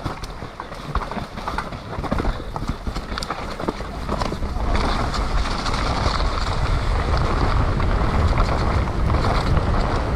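Mountain bike riding down a muddy downhill trail: many short knocks and rattles of the bike over the rough ground, over a rushing noise of tyres and wind that grows louder about halfway through.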